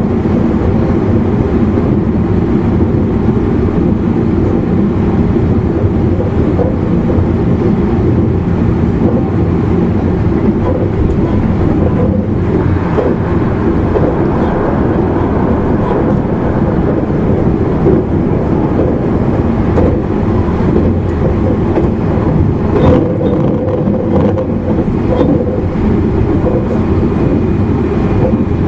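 Running noise inside a JR East E259 series Narita Express motor car at speed: a loud, steady low rumble of wheels on rail and under-floor traction equipment, with a few short clicks in the second half.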